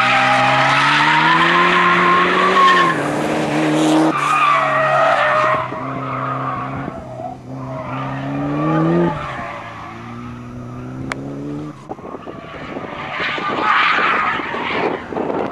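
Ford Sierra Sapphire RS Cosworth's turbocharged four-cylinder engine driven hard, the revs climbing and dropping sharply twice at gear changes, with tyres squealing through the corners. The engine then fades as the car moves away, and a louder rushing noise builds again near the end as it comes back round.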